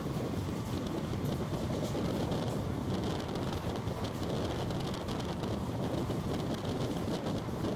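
Passenger train coach running at speed, heard from its open doorway: a steady rumble of wheels on the rails, with rushing air.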